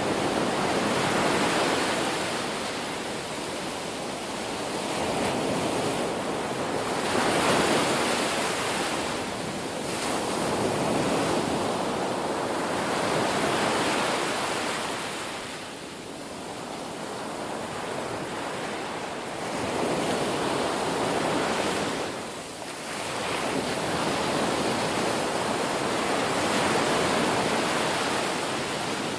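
Ocean surf: waves breaking and washing ashore in a continuous rush that swells and eases every few seconds.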